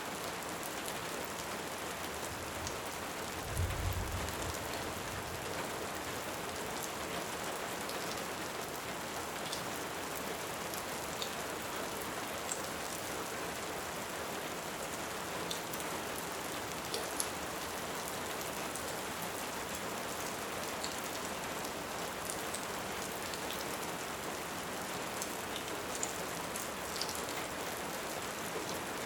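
Steady rain, with scattered sharp crackles from a wood fire and one brief low rumble of distant thunder about three and a half seconds in.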